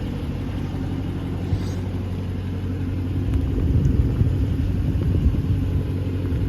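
2014 Dodge Charger R/T's V8 idling with a steady low rumble, still on its stock exhaust.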